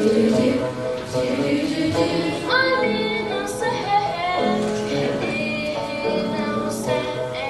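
A song sung by several voices over instrumental accompaniment, the voices holding and changing notes in a melody.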